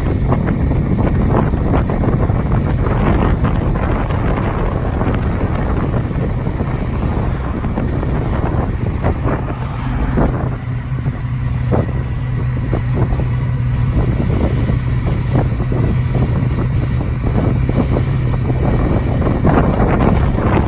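Kubota three-cylinder diesel pony motor on a bucket truck running steadily under load, a low hum, with wind buffeting the microphone.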